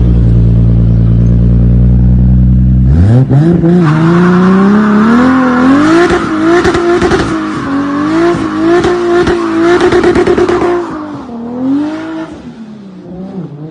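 Toyota Supra MK4's 2JZ straight-six engine: a steady low drone for about three seconds, then the pitch climbs and swings up and down under hard revving with a rushing noise over it until near the end, when it drops away with one short blip.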